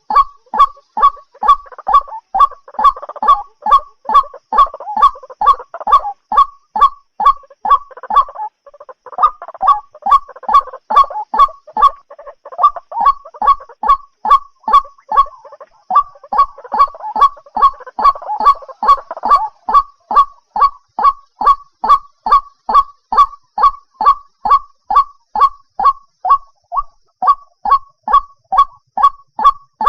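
White-breasted waterhen calling: a steady run of sharp, repeated notes, about three a second, with three stretches of rougher chattering mixed in.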